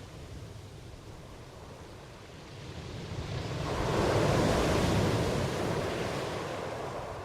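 Ocean waves washing in: a quieter lull, then one wave builds a few seconds in, is loudest just past the middle, and slowly ebbs away.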